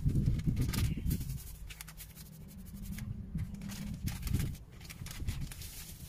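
Wind buffeting the microphone in uneven gusts, strongest in the first second and again around four and a half seconds in, with scattered small clicks and scrapes of cooking things being handled.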